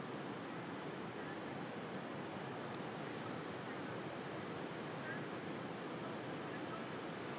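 Steady wash of sea surf, with a few faint crackles from a wood bonfire.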